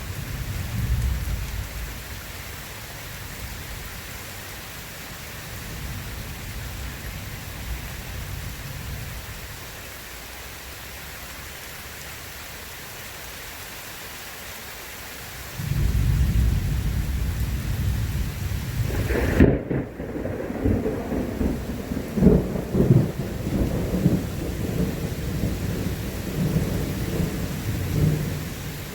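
Steady heavy rain with rolling thunder. A low rumble fades in the first seconds; about halfway through a loud thunder peal rolls in suddenly and goes on crackling and rumbling, with several sharp cracks, while the high rain hiss thins out abruptly.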